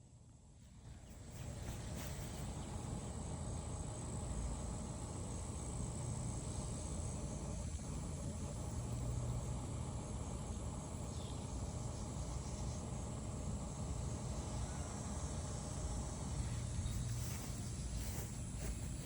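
Steady insect chirring, a thin high continuous trill, over a low rumble. It fades up about a second in and then holds level.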